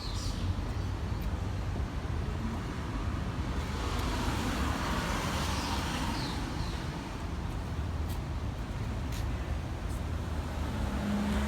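City street traffic noise with a steady low rumble, a passing vehicle swelling and fading in the middle.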